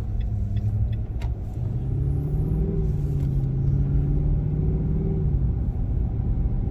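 Car engine and road rumble heard from inside a moving car, with an engine note that comes up about a second and a half in as the car pulls ahead and eases off after about five seconds.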